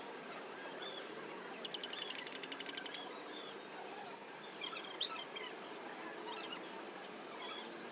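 Small birds chirping in short high calls over a steady background hiss, with a quick rattling trill about two seconds in.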